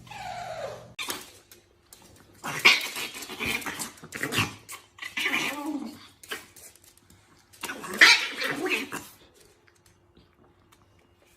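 A dog vocalizing in loud bouts: a short falling call at the start, then three bouts of calls about two and a half, five and eight seconds in.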